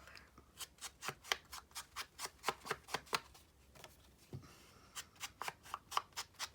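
Rapid run of sharp clicks and snips from hand crafting work, about four or five a second, stopping for a moment around the middle and then starting again.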